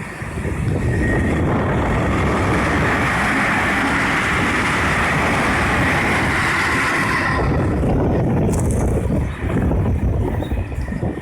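A train passing at speed over a level crossing: a loud, steady rushing noise that builds within the first second and falls away about nine seconds in.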